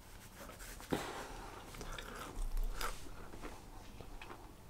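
Faint chewing and mouth sounds of a man eating chicken chunks, with a few soft clicks, then a sip from a pint glass of lager.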